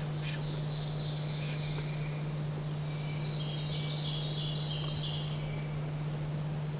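Small songbirds singing in the woods, high chirps with a busy run of quick notes about three to five seconds in, over a steady low hum.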